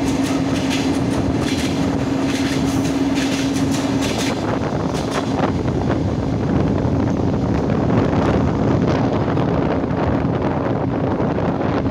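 Electric commuter train running at speed, heard from aboard: a steady rumble of wheels on rail with a steady hum that is stronger for the first four seconds, and a scatter of sharp clicks in the first five seconds.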